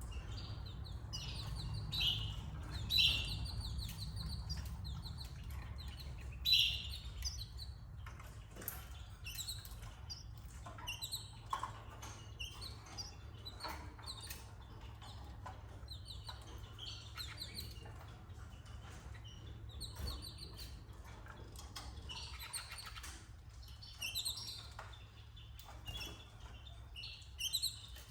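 Canaries giving short, high chirps in scattered bursts, with a few small clicks, over a low steady hum.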